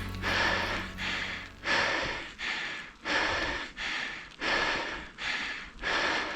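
Hard, rhythmic breathing of a mountain biker working on the pedals: quick breaths in and out, about one and a half a second. The last of a song's low notes fade out in the first second or so.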